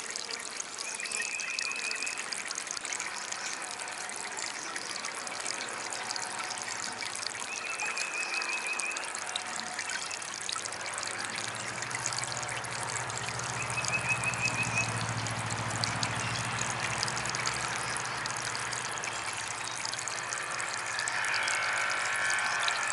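Water trickling and splashing steadily from a small DIY garden fountain. A short high trill comes four times, and a low hum rises and fades in the middle.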